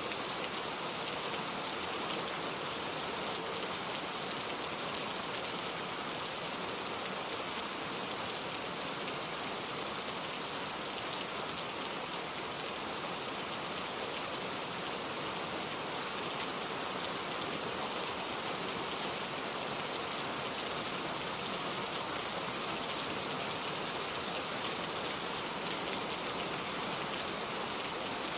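Steady rainfall, an even hiss with fine scattered drop ticks and no change in intensity.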